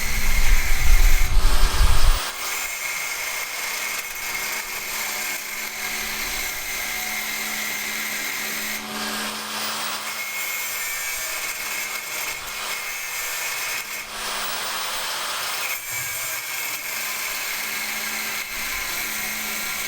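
A power tool running steadily, with a held high whine over a noisy hiss. A loud low rumble fills the first two seconds, and the sound changes abruptly about two, nine and sixteen seconds in.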